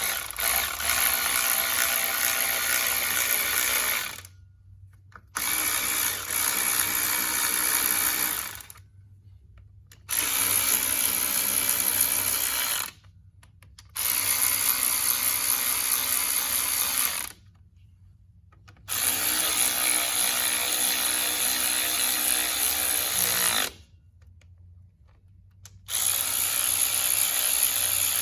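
Power drill running in six runs of about three to five seconds each, with short pauses between them. The runs fit the bolts of a tractor's replacement water pump being driven in.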